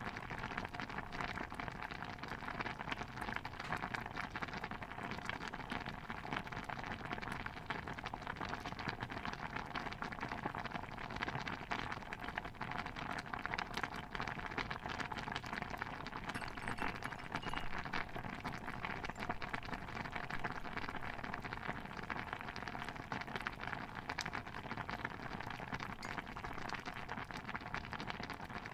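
A pot of stew bubbling at a steady boil: a dense, even patter of small bubbling pops.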